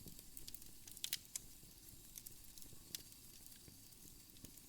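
Wood fire in a fireplace crackling faintly: scattered sharp pops and clicks, the clearest about a second in and near three seconds, over a soft low hiss.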